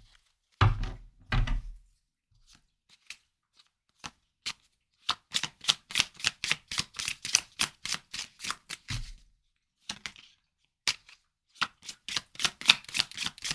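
A deck of tarot cards being shuffled by hand: a couple of dull thumps early on, then quick slapping clicks of cards, about five a second, in two runs.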